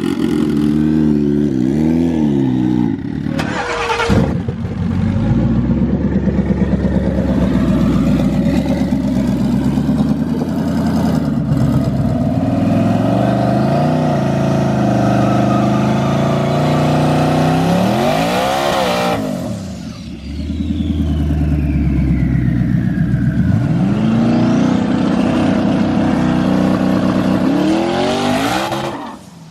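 Twin-turbo Mustang drag car engine revving up and down repeatedly, with a brief drop in level about two-thirds of the way through.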